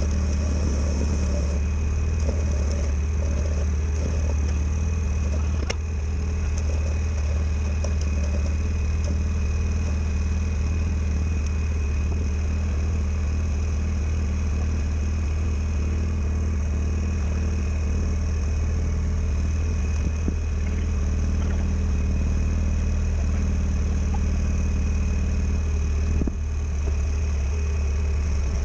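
A machine running steadily with a constant low hum and a faint steady high whine, unchanged throughout.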